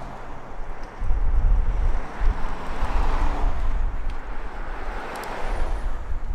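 Wind buffeting the microphone with a deep rumble, over a rushing noise that swells and fades twice.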